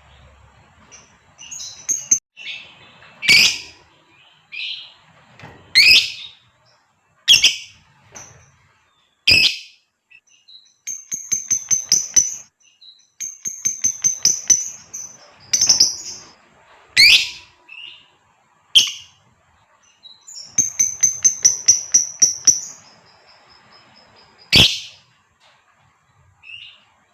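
Female lovebird calling: sharp, shrill single shrieks alternating with three runs of fast, rattling chatter ("ngekek"), each run lasting a second or two.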